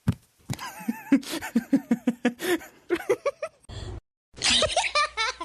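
Laughing in a quick run of short 'ha' syllables, about four a second, then after a brief break a higher-pitched run of laughing near the end.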